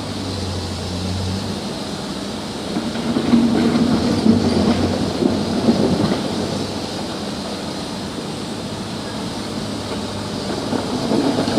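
Komatsu PC200-7 hydraulic excavator's diesel engine running as a steady low drone, with a louder, rougher stretch of mechanical clatter from about three to six seconds in.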